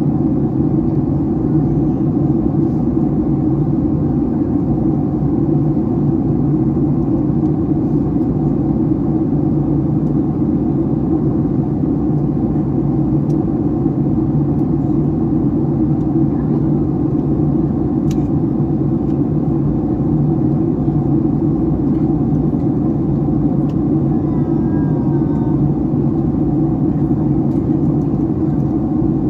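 Steady drone in the passenger cabin of a Boeing 757-300 in flight: engine hum and airflow noise at a constant level.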